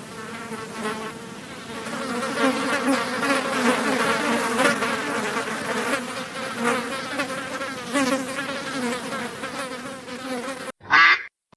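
Insects buzzing steadily with a wavering hum, which cuts off suddenly near the end; a short loud call follows.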